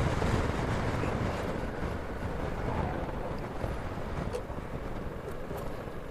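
Wind rushing over the microphone with a Vespa scooter's engine under it while riding, the noise gradually growing quieter.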